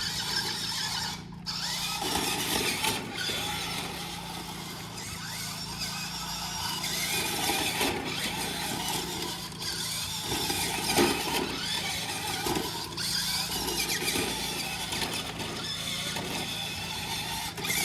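Electric RC monster truck's motor and gears whining as it drives, the pitch rising and falling with the throttle, with a few sharp knocks.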